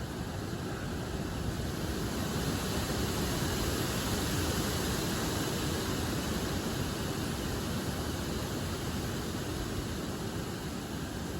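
Gusty wind rushing through large trees, their leaves rustling in a steady roar of noise that swells a little a few seconds in and then eases.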